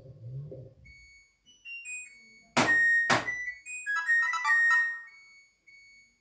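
LG inverter direct-drive washing machine signalling the end of its cycle: a string of electronic beep tones, two sharp loud clicks about half a second apart, then a quick chime melody.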